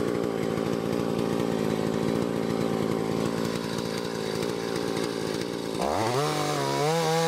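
1959 Stihl Contra two-stroke chainsaw running at a steady low speed, then revved up quickly near the end and held at high speed.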